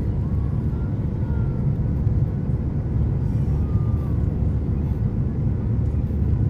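Steady cabin noise of a Boeing 737-800 in flight: an even low rumble of the CFM56 engines and airflow.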